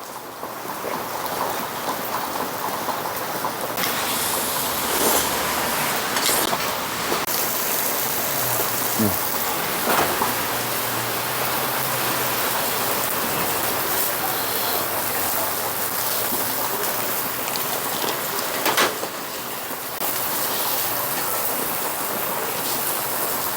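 Steady hiss of rain mixed with pork sizzling on a grill, with a few sharp clicks and knocks of tableware.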